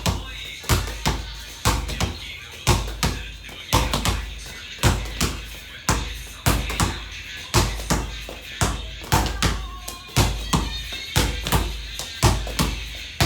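Basketball bounced again and again on a hard floor, dribbled at an uneven pace with quick double bounces now and then, over background music.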